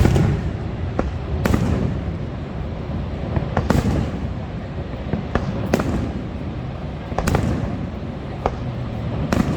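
Fireworks bursting overhead: about six sharp booms, roughly one every one and a half to two seconds, with fainter pops between them, over a steady low rumble.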